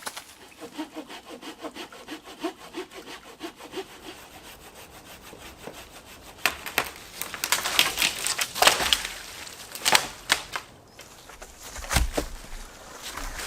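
A saw cutting wood in quick, even back-and-forth strokes, about three a second. From about six seconds in come louder, irregular knocks and scrapes of wood.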